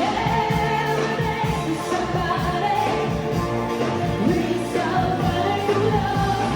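A live band playing a soul number with singers holding long notes over a steady bass line.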